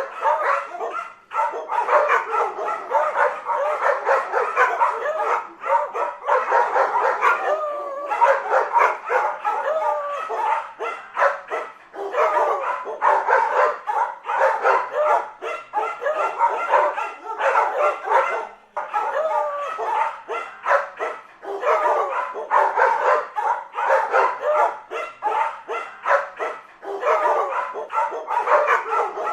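A pack of dogs barking and yipping, overlapping barks coming several a second with a few short lulls.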